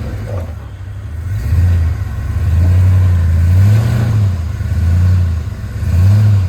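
Off-road 4x4's engine revving up and down several times as it strains over an obstacle, hung up on its skid plate.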